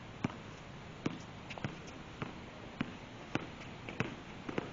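A basketball bouncing on a hard court, sharp bounces about every half second like dribbling, over a steady background hiss.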